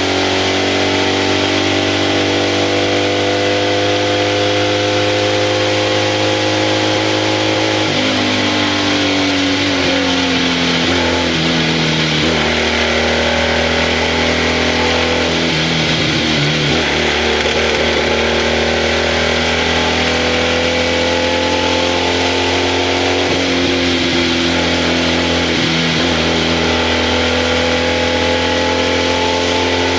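BMW 700 RS racing car's air-cooled flat-twin engine, heard from inside the cockpit, pulling hard uphill. Its note climbs steadily in pitch, falls about eight seconds in and again around twenty-three seconds in, then climbs again.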